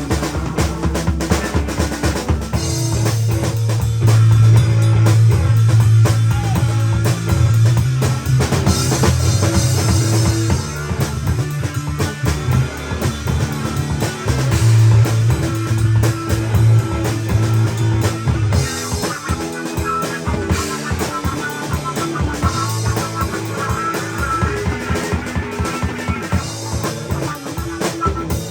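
A band playing rock music on drum kit, guitar and bass, with a steady beat and a prominent bass line.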